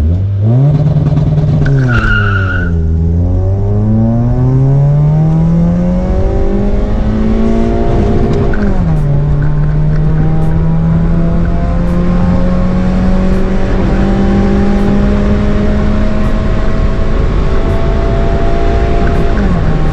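Toyota Vios's 1NZ-FE four-cylinder engine launching from launch control, with a brief tyre squeal about two seconds in as the revs dip. The revs then climb, fall at an automatic-gearbox upshift about eight and a half seconds in, rise slowly again and fall at another upshift near the end.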